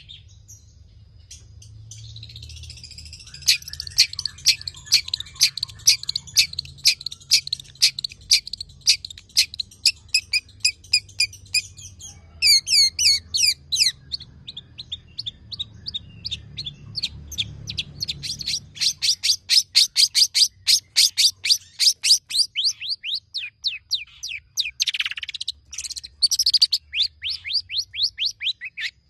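Long-tailed shrike (cendet) singing a long, rapid song packed with mimicked phrases, fast repeated notes coming several a second, with a run of quick downward-sweeping notes about twelve seconds in and a dense, fast series through the second half.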